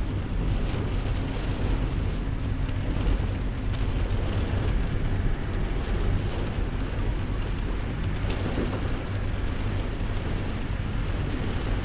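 Thunderstorm ambience: a steady low rumble under an even hiss of rain.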